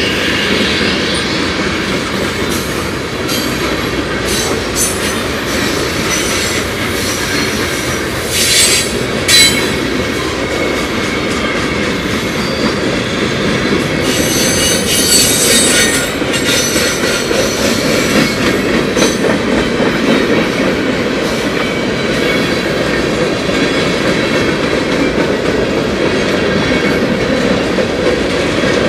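Freight cars of a passing manifest train rolling by close at speed, with a steady rumble and wheel clatter on the rails. High-pitched wheel squeals come briefly about nine seconds in and again for a couple of seconds around the middle.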